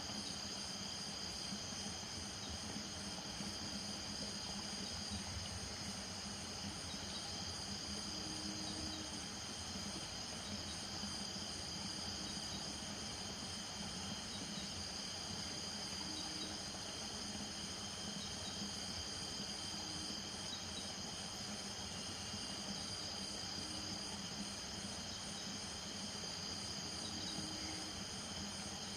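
A dense chorus of crickets trilling steadily at night at several pitches, one of them a fast pulsing trill. A few short low calls from frogs or toads sound now and then.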